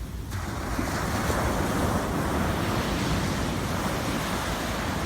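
Sea waves washing ashore. A wave swells up about a third of a second in and its rushing surf carries on, easing off near the end.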